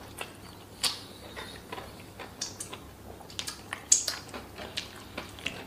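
Close-miked chewing and crunching of fried fish, a run of irregular crackly clicks, the sharpest about a second in and again near four seconds.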